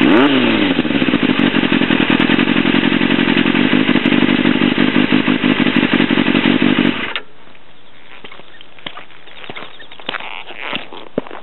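Yamaha FZR400RR inline-four engine running through a Devil slip-on exhaust. It gives a quick throttle blip right at the start, then settles to a steady idle. About seven seconds in the engine cuts off abruptly, and a few light clicks and taps follow.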